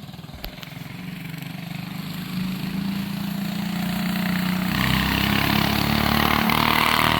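Mini bike's small engine held at high revs, getting steadily louder. About two-thirds of the way in a loud rushing hiss joins it as the rear tyre spins in a burnout.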